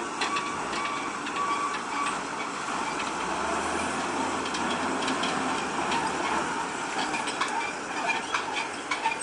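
Heavy machinery running while crushed cars are loaded, with a reversing alarm beeping at the start and a series of metal knocks and clanks in the last couple of seconds.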